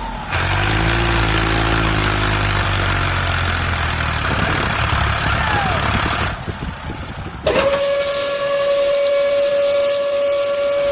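A steady hiss over a low rumble, which drops away about six seconds in. About a second later a long, steady whistle-like tone starts and holds.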